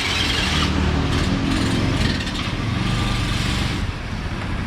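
Small motorbike engine running, its pitch rising and falling as it is revved, just after a repair of its fuel problem.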